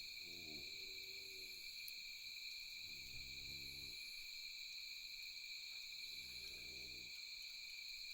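Night insect chorus, a steady high-pitched ringing. Three times, about every three seconds, a low, deep call lasting about a second rises over it.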